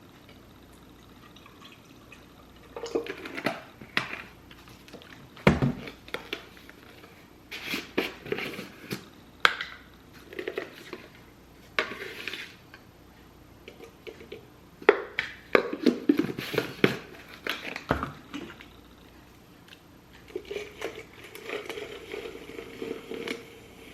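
Irregular knocks, clicks and clatter of objects being handled in a small room, with short quiet gaps between.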